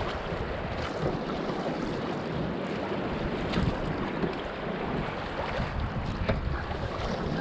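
Steady rush of moving river water around a paddled boat, with wind on the microphone and a few faint knocks.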